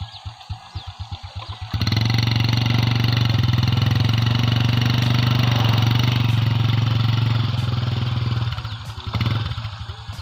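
Honda motorcycle engine idling with an even putt-putt. About two seconds in, the throttle opens and the engine runs loud for about six seconds, with a rushing noise as the bike is ridden through shallow river water. It drops back to idle near the end after one short blip of throttle.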